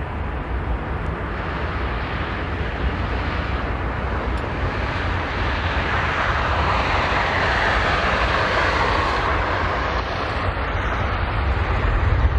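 Jet airliner engines at takeoff thrust on the runway: a steady jet rush that swells in the middle, with a deep rumble growing louder near the end.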